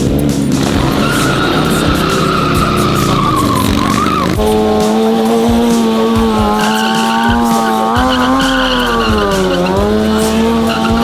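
A car doing a burnout: tyres squealing and the engine held at high revs. About four seconds in the sound shifts to a steady, strong engine note that sags briefly near the end.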